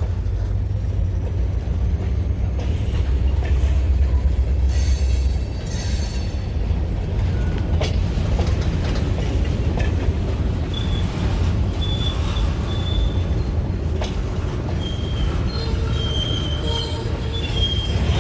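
Missouri & Northern Arkansas freight train rolling by, with a steady low rumble of steel wheels on rail and a couple of sharp clicks. Faint high-pitched wheel squeals come in and out during the second half.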